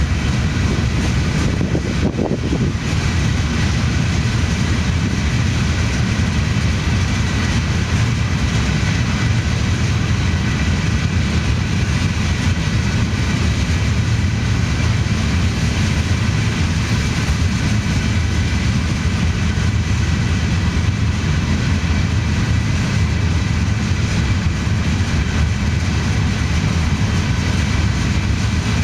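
Empty hopper cars of a CSX freight train rolling past: a steady low rumble of steel wheels on rail, with faint thin steady tones above it and one brief click about two seconds in.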